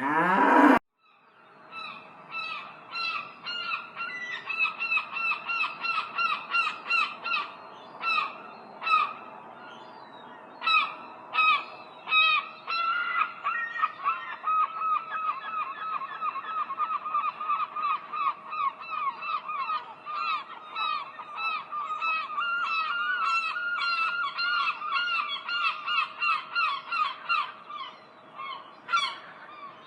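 A flock of geese honking, with many short calls overlapping at several a second. The flock is preceded by a brief loud sound rising in pitch right at the start.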